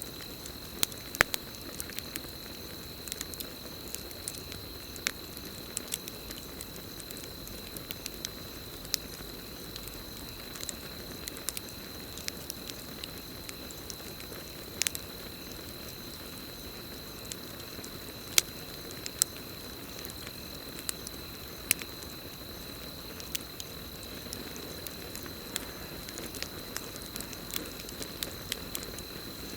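Campfire burning, with irregular sharp crackles and pops over a steady low rush of flames. A continuous high cricket trill runs underneath.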